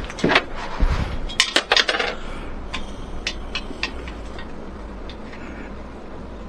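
A quick run of sharp clicks and light metallic clinks in the first two seconds, then a few scattered single ticks, over a steady low hum.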